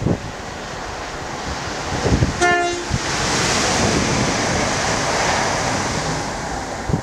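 A diesel multiple-unit passenger train sounds one short horn blast about two seconds in. It then runs past close by, the rush of its wheels and engine swelling and then easing off.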